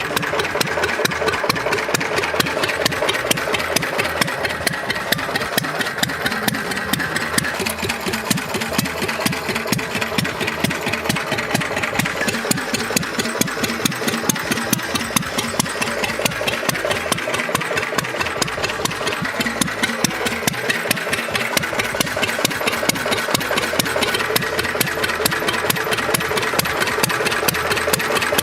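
1936 Lister D single-cylinder engine running steadily, with a fast, even beat of firing strokes.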